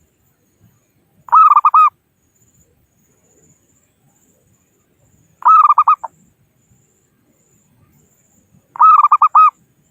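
Zebra dove (perkutut) calling three times, each call a quick run of rippling coos lasting just over half a second, with quiet gaps of about three seconds between. It is the call used to draw rival doves in.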